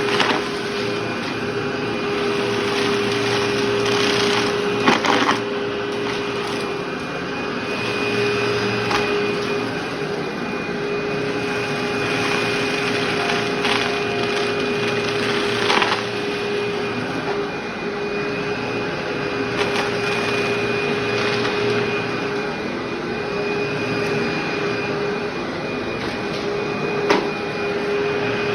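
Vacuum cleaner running steadily over carpet: a constant motor hum with a steady whine, broken by a few brief sharp clicks and crackles as debris is sucked up.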